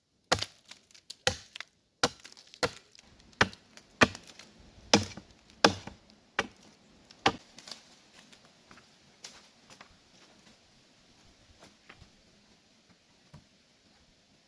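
Repeated chopping strikes on wood, one sharp blow roughly every three quarters of a second, then fewer and fainter blows after about eight seconds.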